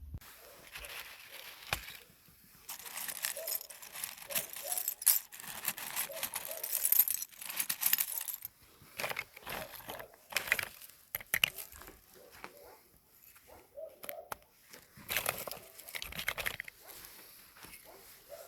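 Close-up ASMR handling noises: irregular crinkling and rustling with small sharp clicks, in uneven bursts and short pauses.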